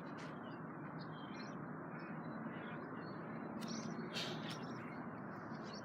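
Birds chirping over a steady background hiss, with a couple of short, bright hissing bursts about four seconds in.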